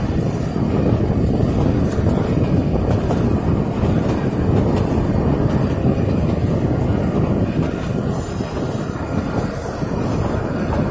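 Nilgiri Mountain Railway passenger train running along its metre-gauge track: a steady loud rumble of the coach wheels on the rails. It is heard from an open coach window.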